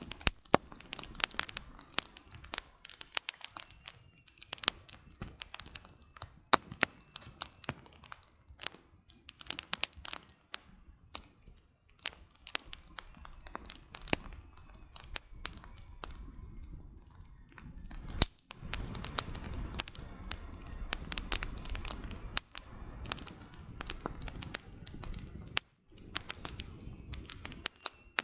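Campfire of burning firewood crackling, with irregular sharp pops and snaps, some louder than the rest. For several seconds in the second half, a low rumble sits under the crackling.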